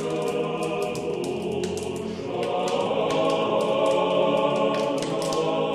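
Choral music: a choir singing sustained chords, with light irregular clicks throughout.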